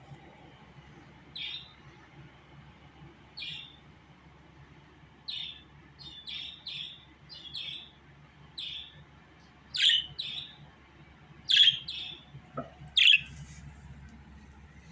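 Pet budgerigar chirping in short, separate calls about once a second, a few of them louder and sharper from about ten seconds in.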